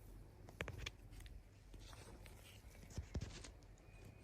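Quiet room tone with a few faint clicks and taps, a cluster just before a second in and another around three seconds in.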